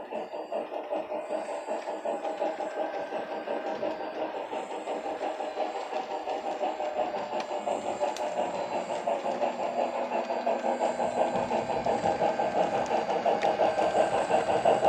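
Sound decoder in an HO scale model steam locomotive, a 4-6-2 Pacific, playing steam exhaust chuffs through its small speaker: a steady beat of about two to three chuffs a second, growing louder toward the end.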